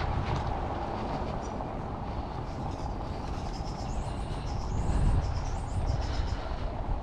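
Steady low rumble of wind and street noise, picked up from a moving bicycle, with a run of short high chirps about four to six seconds in.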